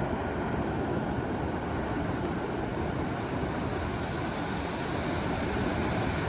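Steady rushing noise of wind buffeting the microphone, mixed with ocean surf.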